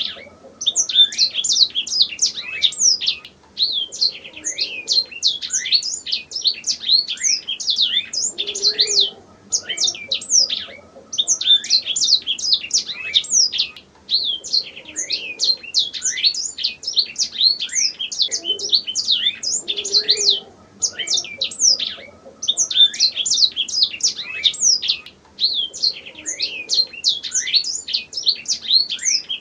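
Domestic canary singing: long, fast phrases of quick sweeping high notes, broken by brief pauses every few seconds.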